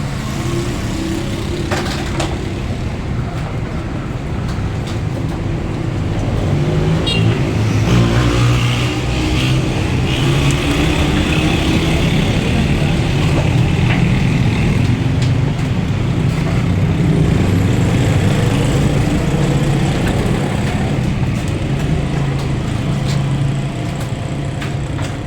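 Motor vehicle engine running and revving unevenly, with a few sharp knocks over it.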